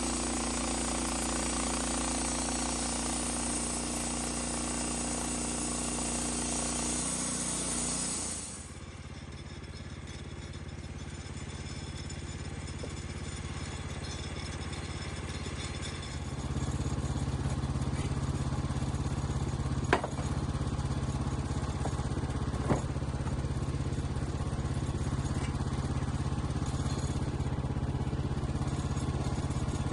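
An engine running steadily. About 8 s in the sound changes abruptly, and from about 16 s it runs stronger and higher, with two sharp knocks near 20 and 23 seconds.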